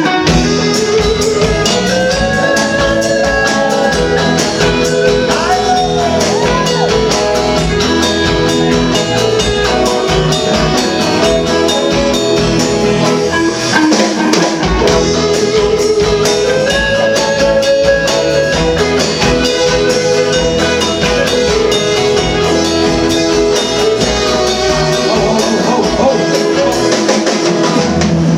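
Band music with guitar and a drum kit, a steady beat under a melody that glides between notes.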